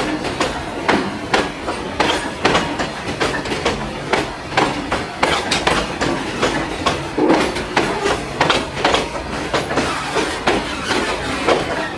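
Freight train of bogie covered wagons rolling past, its steel wheels clacking over the rail joints, a few clicks each second over a steady rumble.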